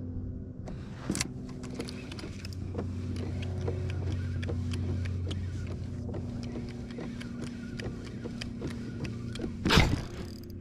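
Small electric trolling motor humming steadily, the hum dropping in level about six seconds in, with many light clicks and ticks over it and a sharp knock near the end.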